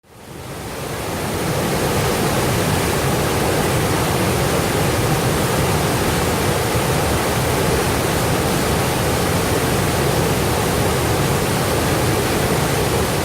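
Fast-flowing river water rushing steadily. The sound fades in over the first second or two.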